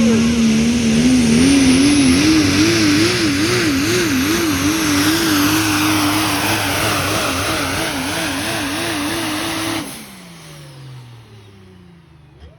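Pulling truck's engine running flat out under load as it drags the sled, its note wavering rapidly up and down. About ten seconds in the throttle is lifted: the sound drops off sharply and the engine winds down.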